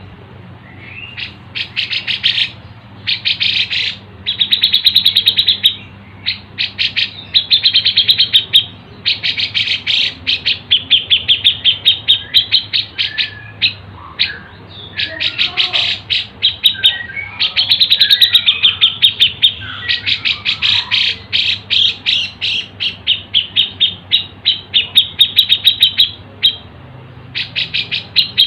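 Bird-song tutor recording mixing cucak jenggot (grey-cheeked bulbul), fighting Eurasian tree sparrows and siri-siri calls. Long runs of fast, high chirps and trills come with short breaks, and some lower notes slide about in the middle. A faint steady hum sits underneath.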